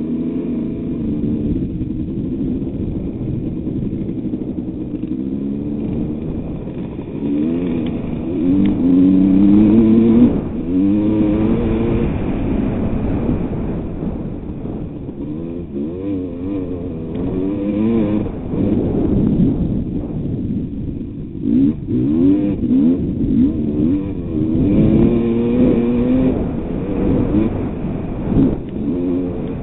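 1988 Kawasaki KX250's single-cylinder two-stroke engine revving up and down again and again as the motocross bike is ridden, loudest about ten seconds in.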